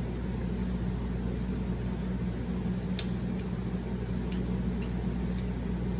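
Steady low background hum, with a few faint clicks of someone chewing food with the mouth close to the microphone.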